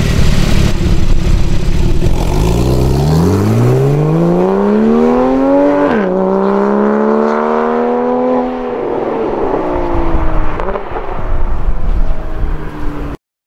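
Porsche 991 Carrera's flat-six through an M&M aftermarket exhaust, starting with a deep rumble and then revving up in a rising note. About six seconds in the pitch drops suddenly, as at a gear change, then climbs again before the revs fall away. The sound cuts off abruptly near the end.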